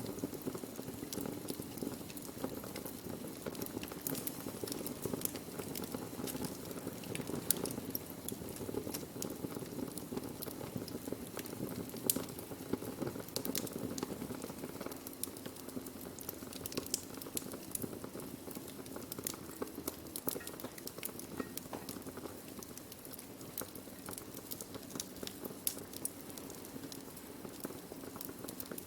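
Burning wood crackling: a steady low rush of flames with many sharp, irregular pops and snaps throughout, a few of them louder than the rest.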